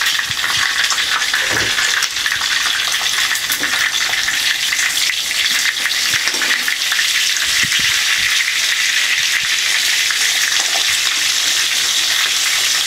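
Pieces of food frying in hot oil in a frying pan: a loud, steady sizzle.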